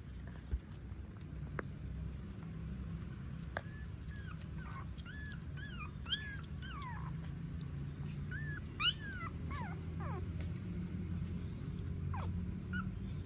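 Newborn puppies whimpering and squeaking: a run of short, high cries that rise and fall, most of them from about four to ten seconds in, with one louder cry near nine seconds, over a low steady hum.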